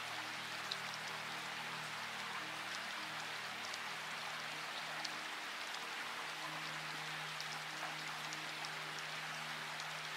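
Steady rain, a continuous hiss with scattered individual drops ticking, over soft background music of long held low notes.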